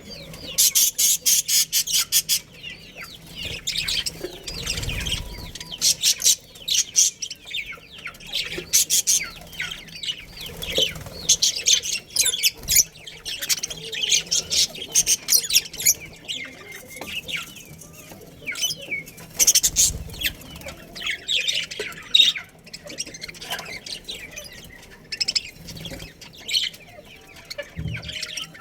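A group of budgerigars chirping and chattering in rapid, high-pitched bursts.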